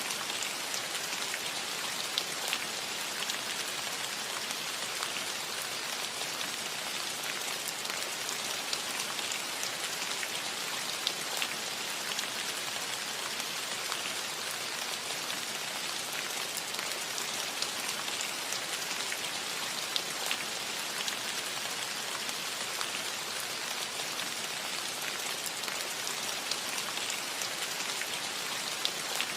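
Steady rain falling on a metal roof, an even hiss with many small, scattered drop ticks.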